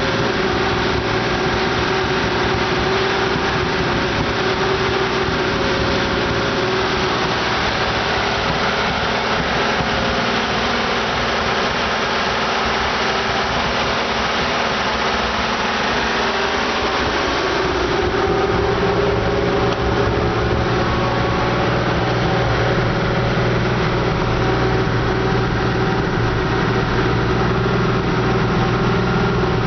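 Porsche Carrera 3.6 flat-six engine running at idle on its first run after a full rebuild. A little past halfway the tone changes, with a stronger low note and a slight rise in loudness.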